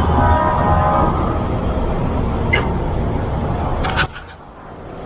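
Road traffic noise, with a brief high whine in the first second and a few sharp clicks, dropping off suddenly about four seconds in.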